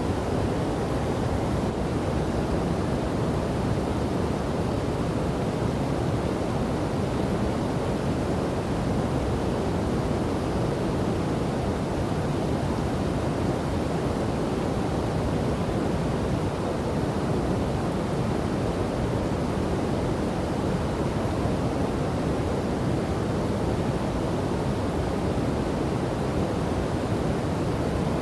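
Steady rush of a river and waterfall, a dense, unbroken roar of falling water heaviest in the low range.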